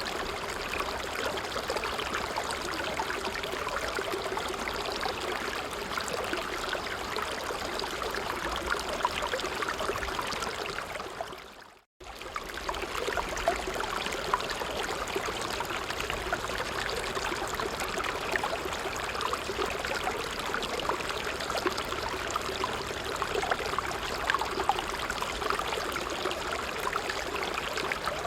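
Small stream flowing, a steady babbling trickle of water. About twelve seconds in, it fades out to silence for a moment, then cuts straight back in.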